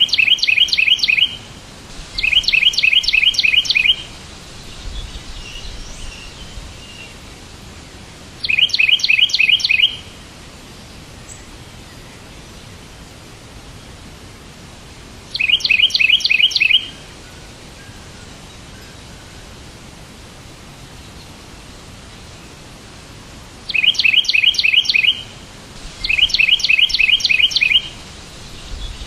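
A songbird singing short phrases, each a quick run of about half a dozen bright repeated notes, six times with pauses between, over a steady hiss. Faint chirps come in between the phrases.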